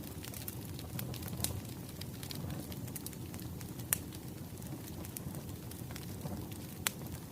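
Log fire crackling: a steady low rumble of burning wood with scattered sharp pops, one louder pop just before the middle and another near the end.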